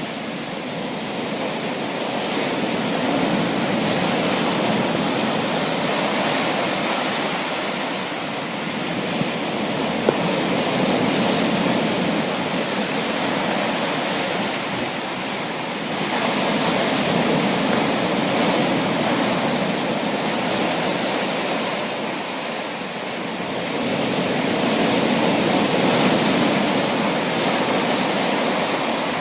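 Sea waves: a steady rush of surf that swells and eases every several seconds.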